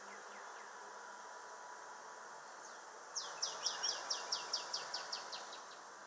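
A songbird singing a series of about a dozen quick, high downslurred notes, roughly five a second, starting about three seconds in and fading out over the last of them, over a faint steady outdoor hiss.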